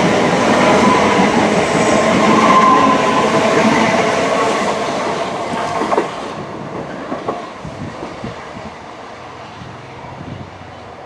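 A passenger train running past on the rails, loud at first with a steady whine in it, then fading away after about six seconds, with a sharp clack as it goes.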